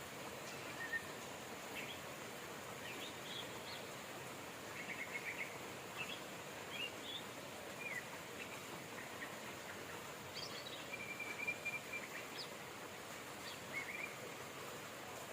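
Steady hiss of rain with small songbirds chirping and trilling over it in short scattered phrases, one longer even trill about two-thirds of the way through.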